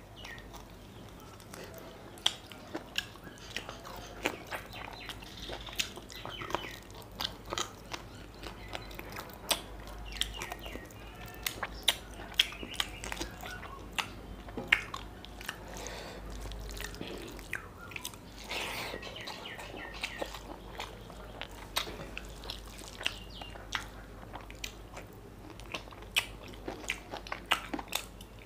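A man eating mutton curry and rice with his fingers, close to the microphone: irregular wet lip smacks, mouth clicks and chewing.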